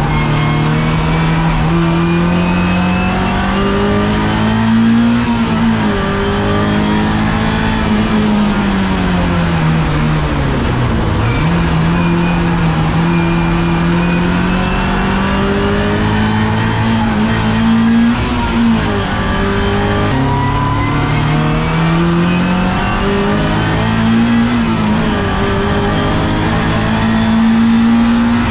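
Race car engine at speed, heard from inside the stripped cockpit. Its pitch climbs and drops repeatedly as it accelerates and changes gear, falling low once about eleven seconds in as it slows for a corner before climbing again.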